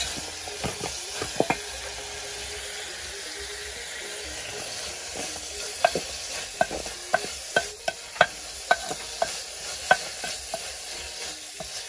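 Silver fish (anchovies) and onion frying in oil in a metal saucepan, sizzling steadily as they are stirred. From about halfway, the spoon knocks against the pot about twice a second.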